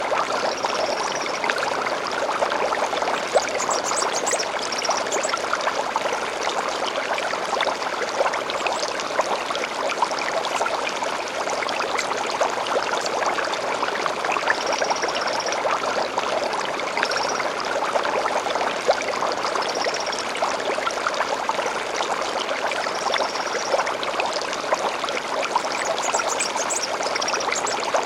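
A small stream babbling steadily over stones, with short high bird calls and brief trills every few seconds.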